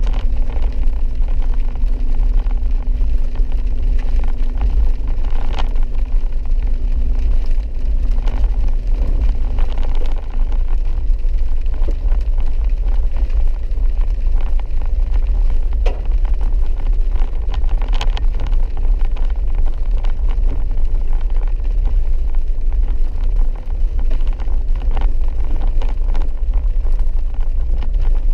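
4x4 vehicle driving slowly over a wet dirt mountain road, heard from inside the cab: a steady low rumble of engine and tyres, with scattered clicks and knocks from the rough surface. A faint low hum fades out about ten seconds in.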